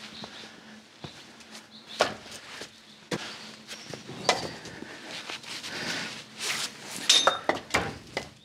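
A series of irregular knocks and clunks, with a cluster of sharp ones near the end, over a faint steady hum.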